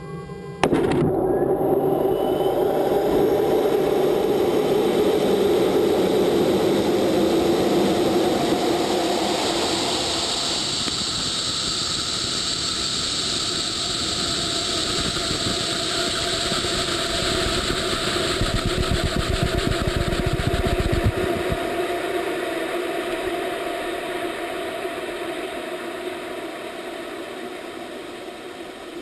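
Rocket engine noise at launch: a loud, continuous rumble that starts abruptly and fades slowly as the rocket climbs away.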